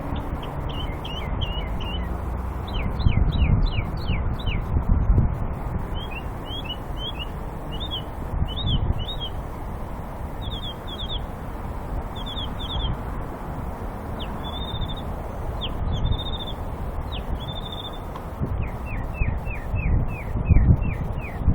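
A songbird singing a long, varied song: runs of short, sharp notes, each run repeating one note several times before switching to a new one. A steady low rumble runs underneath, swelling now and then.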